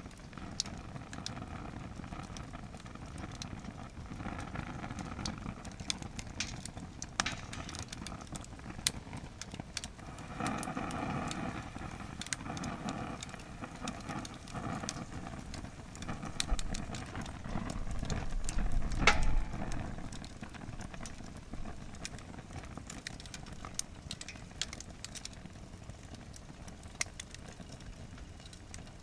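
Firewood burning in a campfire stand, heaped beyond its capacity: the fire crackles with sharp pops scattered throughout over a steady rush of flame. A low rumble swells for a few seconds past the middle, with one loud pop near its peak.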